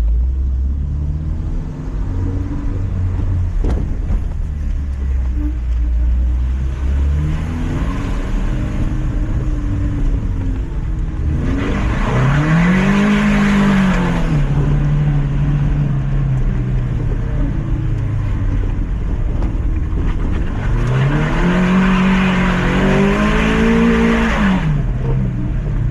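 Lifted Mazda MX-5's four-cylinder engine running at a steady low drone. It revs up and back down twice, about twelve and twenty-one seconds in, with a rush of noise over each rev.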